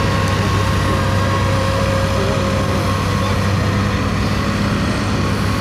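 Vintage tractor engine running at a steady speed under ploughing load, a constant low hum with a faint steady whine above it.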